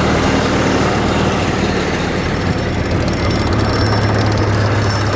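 An engine running loudly and steadily amid dense mechanical noise. Its low hum shifts to a different pitch about three and a half seconds in.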